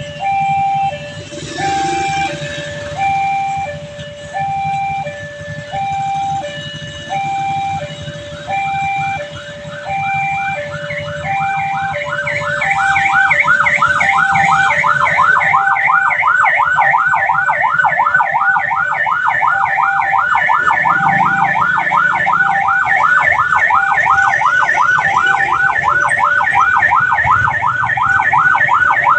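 Railway level-crossing warning alarm sounding as the barriers are lowered. A two-tone electronic signal alternates between a low and a high note about once a second. About eleven seconds in, a fast warbling electronic alarm of about five sweeps a second joins it and grows louder, over a low steady hum.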